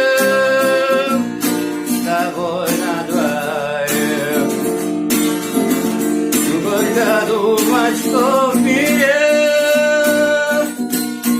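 A voice singing the last line of a song in long, drawn-out notes over acoustic guitar, with a held note at the start and another near the end.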